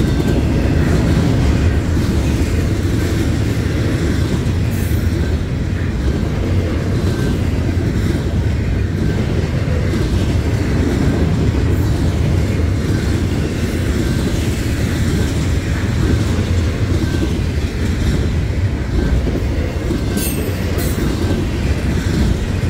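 Double-stack intermodal freight cars of a BNSF train rolling past, a steady loud rumble of steel wheels on rail.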